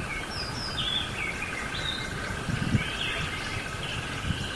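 Small birds chirping and whistling in short repeated calls over a steady pulsing trill and a low rumble of outdoor noise.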